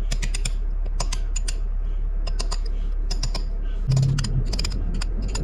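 Quick, irregular light metal taps and clicks of a pin punch being tapped against a snapped bolt stub in a transmission valve body, working the broken bolt loose.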